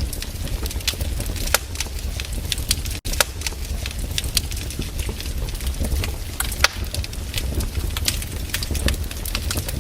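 Wood fire burning: frequent sharp crackles and pops from the logs over a low steady rumble. The sound cuts out for an instant about three seconds in.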